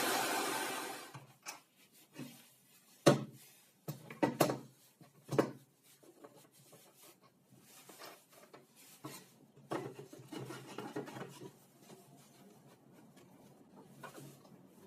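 An electric power tool motor running steadily, then winding down and stopping about a second in; after it, a few sharp knocks and light rubbing of wooden pieces being handled.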